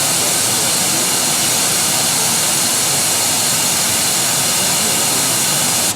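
A steady, even hiss of noise that cuts off abruptly at the very end.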